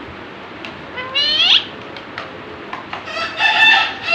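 Pet parrot calling: a short rising whistle-like call about a second in, then a longer call around three seconds in.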